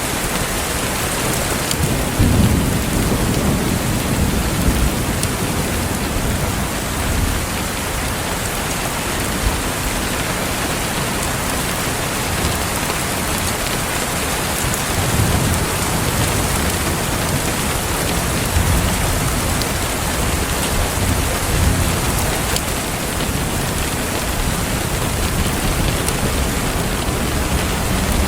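Steady rain falling, with low rolls of thunder swelling about two seconds in and again midway through.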